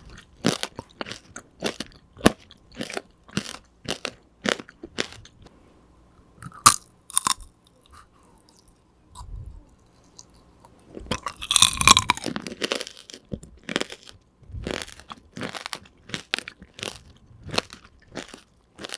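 Close-up chewing and crunching of tanghulu, candied fruit whose hard sugar coating has gone slightly sticky. Crisp crunches come about twice a second. After a lull with a couple of sharp cracks, there is a loud burst of crunching about halfway through, likely a fresh bite, and then the steady chewing resumes.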